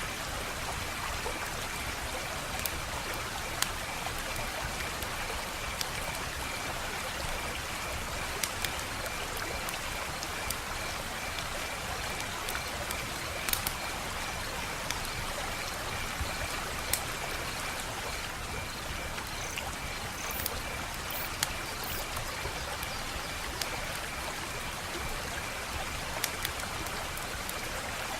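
Wood fire crackling: a steady hiss with scattered sharp pops and snaps at irregular intervals. A faint, high, pulsing trill runs underneath.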